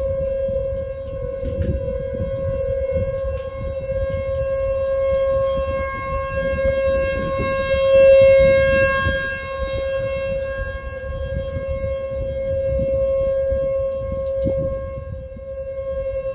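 Outdoor tornado warning siren sounding one steady wailing tone, swelling loudest about halfway through and then easing off, over a low rumble of wind noise.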